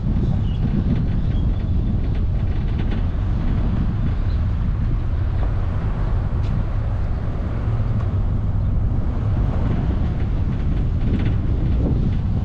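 Steady low rumble of a car driving at road speed, with engine and tyre noise and a few faint ticks.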